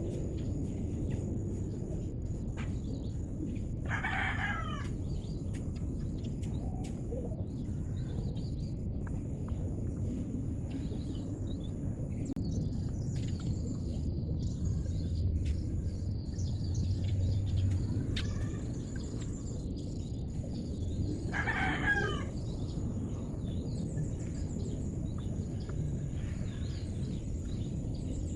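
A bird calls twice, about 17 seconds apart, each call about a second long, over a steady low background rumble.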